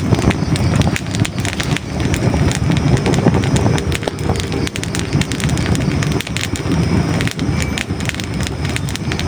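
Hardwood logs burning in a fireplace: a steady low rumble of flames with dense, sharp crackles and pops from the wood.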